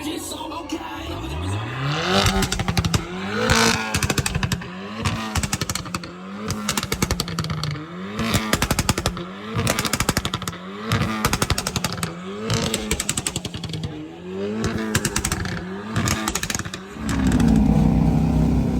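Superbike engine revved in repeated blips, rising and falling about every second and a half, with crackling pops from the exhaust as the revs drop. Near the end it settles into a louder, steady rev.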